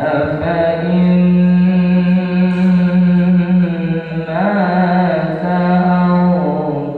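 A single voice chanting a long, slow melodic line with held notes and an ornamented turn about four and a half seconds in, in the style of Islamic vocal recitation. It starts abruptly.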